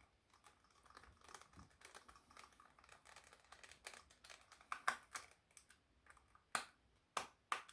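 Faint small clicks and light scraping of a screwdriver turning screws into a plastic camera housing, with a few sharper clicks in the last few seconds.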